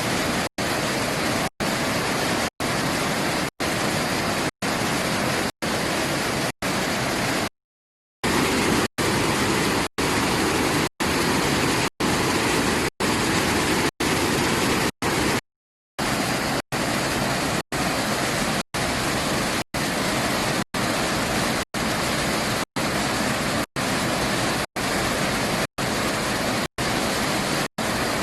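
Flash-flood water pouring down a waterfall in spate, a steady rushing noise. It is cut by brief silent dropouts about twice a second, and by two short gaps about a third and halfway through.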